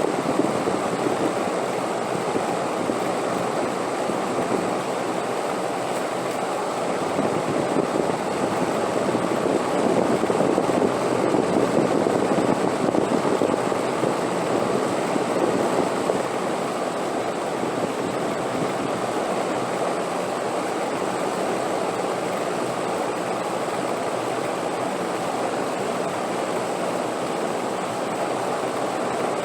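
Wind blowing steadily, a continuous rushing noise that swells somewhat louder for several seconds in the first half.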